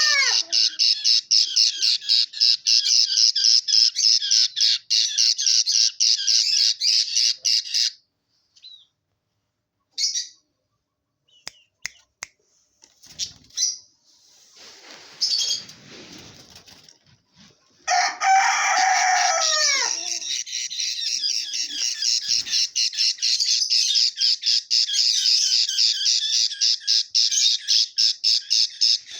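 Budgerigar chicks chirping in a rapid, continuous high-pitched stream. It breaks off about eight seconds in, leaving a stretch of scattered faint sounds, and comes back loud about eighteen seconds in, with a few falling whistles as it restarts.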